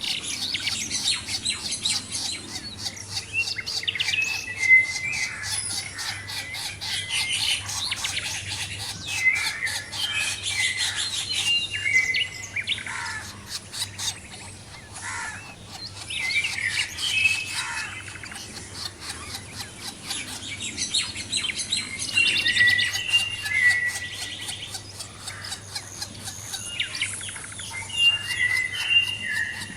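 Several small birds chirping and singing at once: a dense stream of overlapping quick chirps, trills and short whistled notes, over a faint steady low hum.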